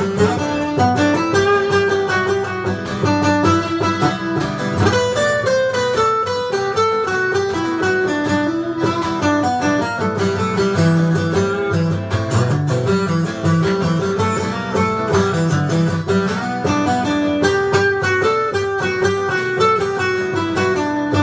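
Band playing an instrumental passage of a pop-rock song with no singing: a guitar carries the melody over bass and a steady drum beat.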